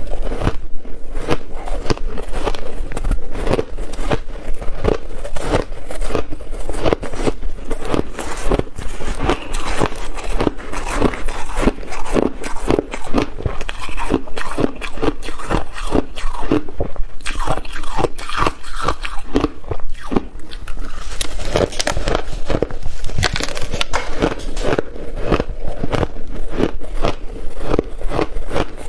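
A person biting into and chewing ice close to the microphone: a continuous run of rapid, crackling crunches.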